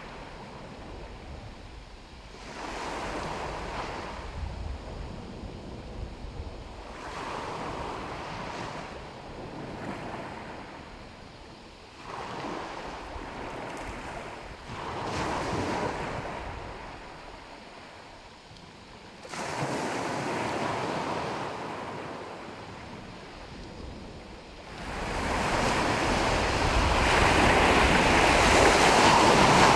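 Sea waves breaking and washing on the shore, each surge swelling and fading every few seconds, with wind on the microphone. The surf grows much louder over the last few seconds.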